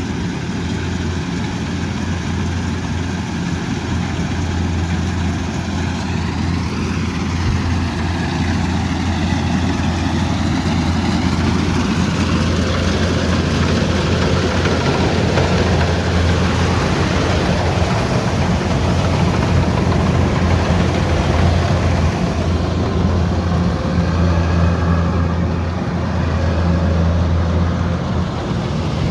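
Kubota DC108X combine harvester running steadily, a low diesel drone with machinery noise above it, growing louder over the first dozen seconds and dipping briefly near the end.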